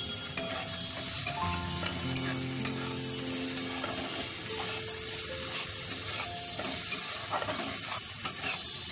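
Chopped onion, potato and ginger sizzling in hot oil in a pan while being stirred, with sharp clicks and scrapes of the utensil against the pan throughout.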